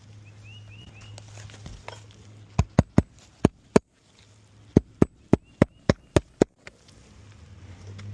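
Sharp knocks in two quick runs, about five and then about seven, made while working over a shingle roof, with a small bird chirping faintly a few times.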